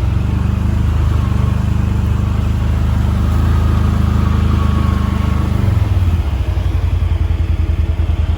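CFMOTO ATV engine running steadily while riding. About six seconds in its pitch drops and it settles into a slower, evenly pulsing beat as the quad comes off the throttle.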